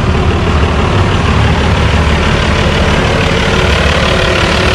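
Big turbocharged truck engine in a rat rod running at a steady idle with a loud, low rumble and no revving.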